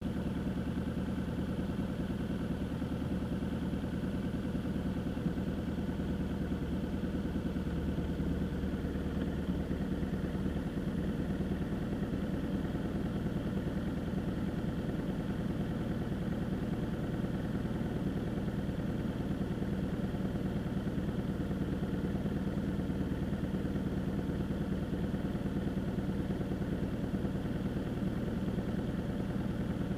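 Vehicle engine running steadily, its low hum shifting in pitch about eight to ten seconds in.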